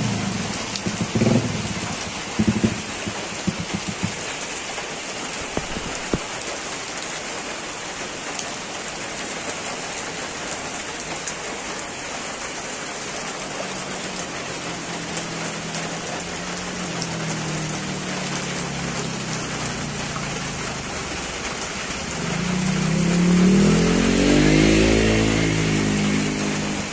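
Heavy rain pouring onto a flooded street, a steady hiss of drops splashing into standing water. Near the end a motor vehicle passes, its engine growing louder and rising then falling in pitch.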